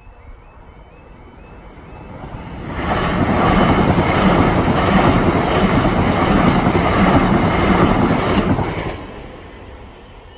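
A Southern electric multiple-unit train passes over the level crossing. Its running noise builds from about two seconds in, stays loud for about six seconds with wheels clattering over the rails, then fades. The crossing's warbling yodel alarm chirps faintly at the start before the train covers it.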